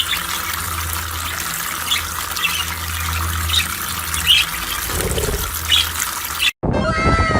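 A steady rush of running water with a few short high chirps scattered through it. It cuts off sharply near the end, replaced by several overlapping falling whistle-like tones.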